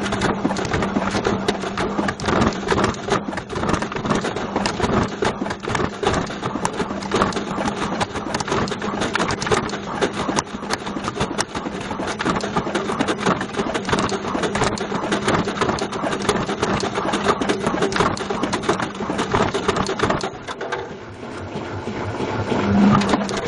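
Beko washing machine running with a Bush VCR807 video recorder loose in the drum: the recorder clatters and bangs against the drum without a break over a steady motor hum. The clattering thins out about twenty seconds in.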